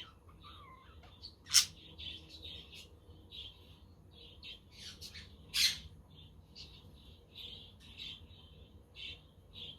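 Budgerigars chattering with a continual run of short chirps and warbles, broken by two loud sharp squawks about one and a half seconds and five and a half seconds in.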